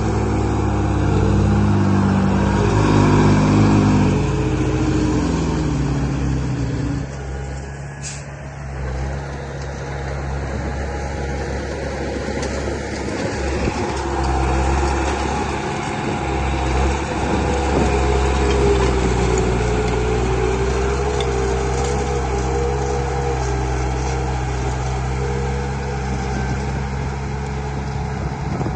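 Heavy-vehicle engine sound running, its pitch shifting up and down for the first several seconds, then settling into a steady run with a wavering whine over it.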